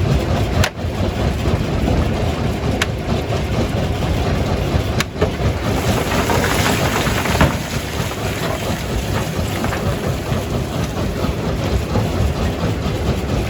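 Jaw crusher running under load: a steady heavy machinery rumble with rock grinding and cracking in the jaws. About six seconds in there is a louder stretch of crunching and clatter for a second or so.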